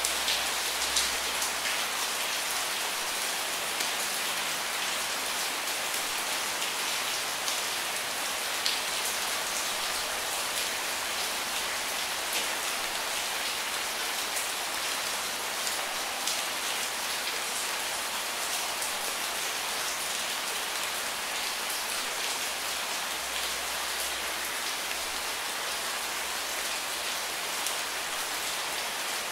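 Steady rainfall: an even hiss with many individual drops ticking and pattering on a surface throughout.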